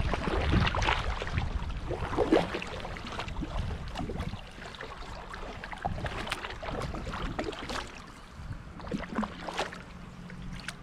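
Kayak paddle strokes splashing in river water at an irregular pace. A low wind rumble on the microphone is strong in the first few seconds, then fades.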